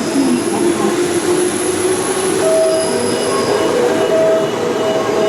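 Electric train running at the station, with steady rail and wheel noise and whining tones; a higher whine joins about halfway through.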